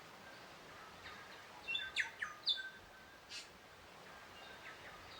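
Songbirds chirping over a faint steady outdoor background: a quick cluster of short high chirps about two seconds in, then a single thin high call a second or so later.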